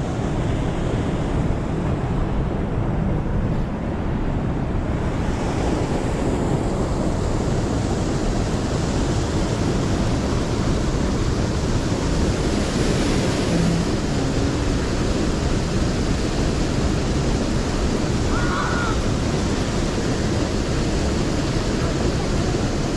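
Steady rushing of a mountain stream's flowing water, mixed with wind buffeting the microphone.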